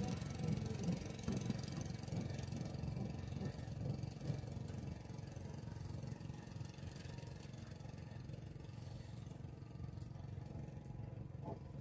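A steady low engine drone, a little louder in the first few seconds and then easing.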